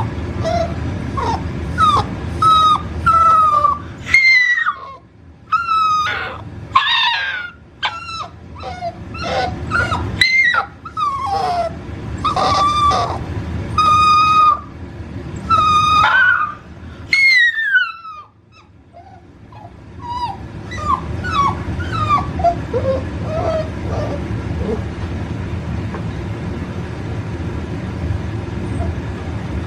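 American Bully puppy whining and crying over and over in its crate: many short, high cries that slide up and down in pitch, loud for most of the first two thirds, then quieter and more spaced out. A steady low hum runs underneath.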